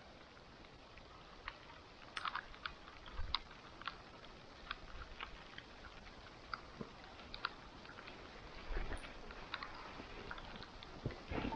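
Wood campfire crackling: irregular sharp pops and snaps over a soft steady hiss, with a few denser clusters of crackles along the way.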